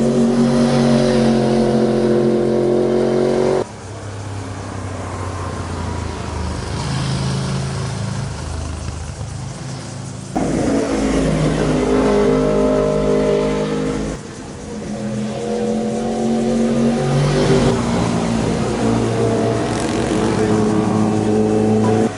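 Motorcycle engines running hard as bikes pass, in four short stretches, each cut off suddenly about 4, 10 and 14 seconds in. The engine notes hold mostly steady pitches, with a rise and fall near the 11-second mark.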